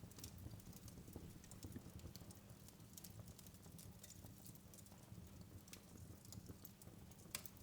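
Faint crackling of a log fire: irregular small pops and snaps over a low steady rumble, with one slightly louder pop near the end.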